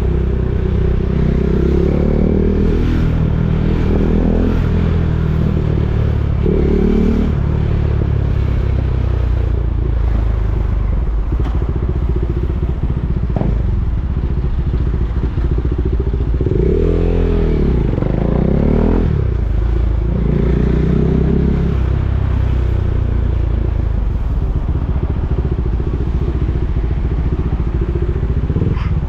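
KTM Duke 390's single-cylinder engine running through slow traffic, loud and continuous. Its pitch rises and falls as the bike accelerates and eases off, with the biggest swings a few seconds in and around the middle.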